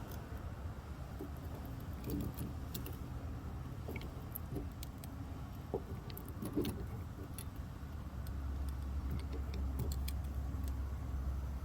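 Scattered light metallic clicks and clinks of plumbing fittings and hand tools being handled, over a low steady rumble that grows a little louder about eight seconds in.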